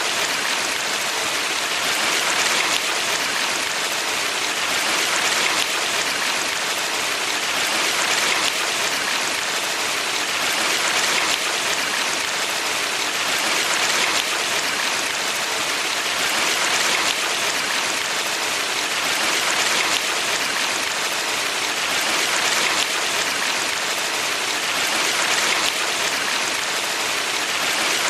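Valley stream water running steadily, a continuous hiss of flowing water that swells gently about every three seconds.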